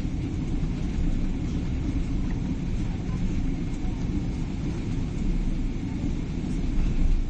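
Steady low rumble inside the cabin of a Boeing 777-300ER during landing: engine and airflow noise.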